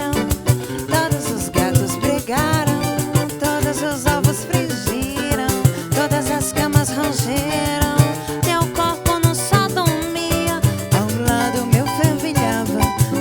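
Samba band playing live: a woman's lead vocal over cavaquinho, guitar, hand percussion and drum kit in a steady samba rhythm.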